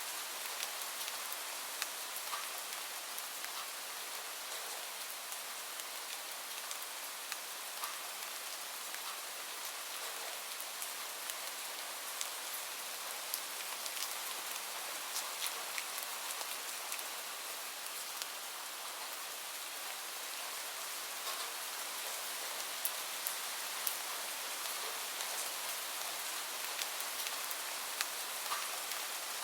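Steady rain falling, a dense even hiss dotted with the ticks of single drops striking a surface.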